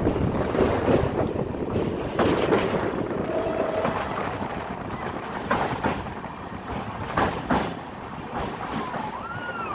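Indian Railways train running on the track: a steady rumble and rattle with irregular clicks and clanks from the wheels. Near the end a wavering wheel squeal begins.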